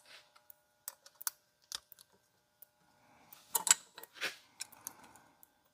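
Scattered light clicks and small knocks of chainsaw clutch parts being handled and fitted by hand, with a busier patch of clicking and faint rustling a little past the middle.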